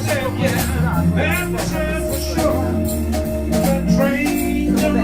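Live roots-rock band playing an instrumental passage: electric guitar, bass guitar, drum kit and organ, with a bass line stepping between notes under steady cymbal strokes.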